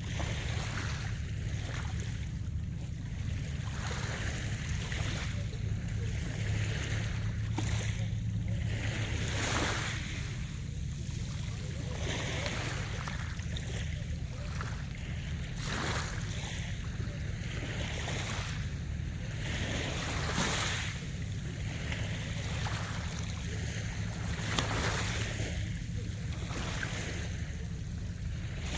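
Sea waves breaking and washing in, swelling and fading every few seconds, over a steady low rumble.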